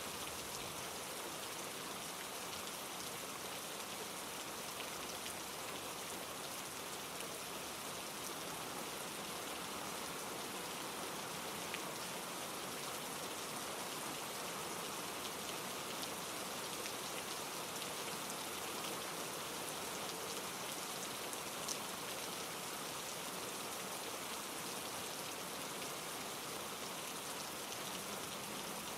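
Steady rain falling through trees and pine needles, with a mountain stream tumbling over granite rocks beneath it; the wash is even and unbroken, with an occasional louder drop.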